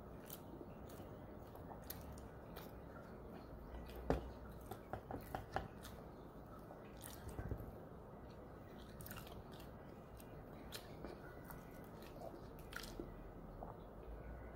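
Faint chewing of sushi with small wet mouth clicks, and a cluster of sharper clicks about four seconds in.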